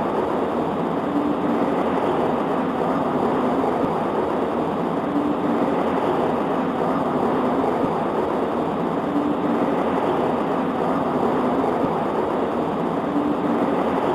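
Steady rain on a window, an even dense hiss without thunder, with a faint low hum that comes back about every four seconds.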